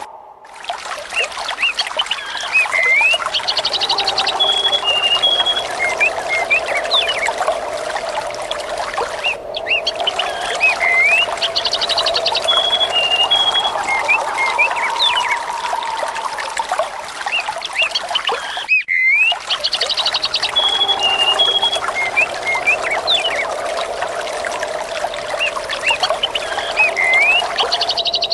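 Trickling, pouring water with small birds chirping and trilling over it. The same stretch repeats about every nine and a half seconds, with a brief dropout at each join of the loop.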